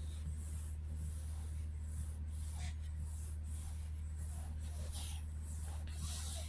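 Cat grooming brush drawn through a cat's fur: irregular scratchy strokes, one every half second to second, over a steady low hum.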